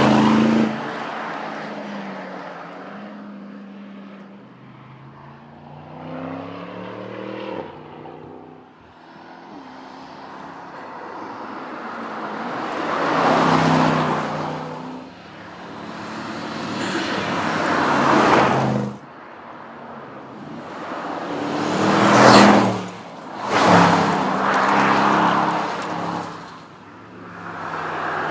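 Aston Martin DBX 707's twin-turbocharged 4.0-litre V8 engine and exhaust, first falling in pitch as it eases off, then swelling loudly several times as it accelerates or passes, each surge dropping away sharply.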